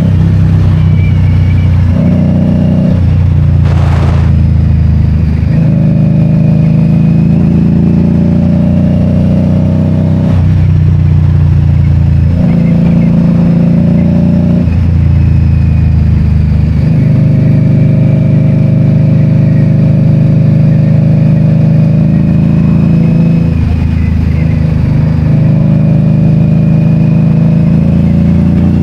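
2022 Indian Scout Bobber's liquid-cooled V-twin engine running under way, loud and steady, its pitch stepping up and down between steady stretches several times as engine speed changes. A brief sharp click about four seconds in.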